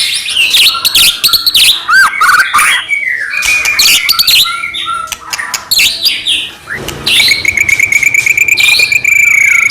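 White-rumped shama (murai batu) in full 'gacor' song: loud, varied phrases of whistles, chips and rising and falling notes. From about seven seconds in comes a rapid, even trill held near one pitch.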